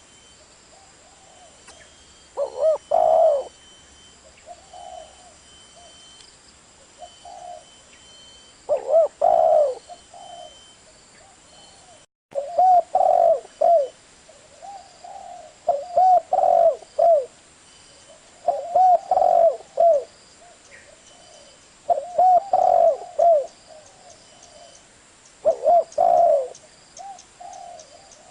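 Spotted dove cooing over and over: a loud coo phrase every two to three seconds, with softer coos in between.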